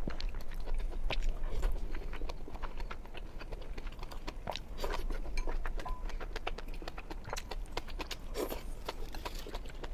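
Close-miked chewing and eating sounds: irregular wet mouth clicks and soft bites that keep up throughout.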